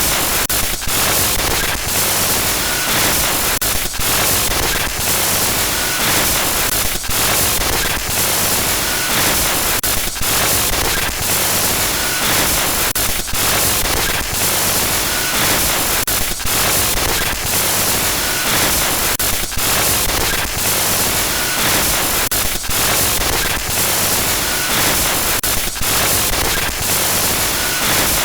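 Loud static-like glitch noise: a dense, steady hiss across all pitches, broken every half second or so by brief stutters and dropouts, with a faint short beep now and then.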